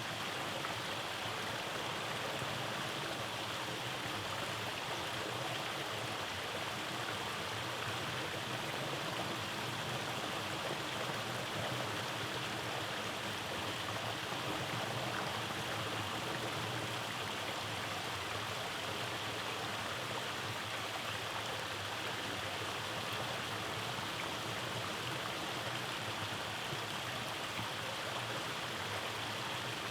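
Rainforest stream flowing over cascades, a steady rush and burble of water.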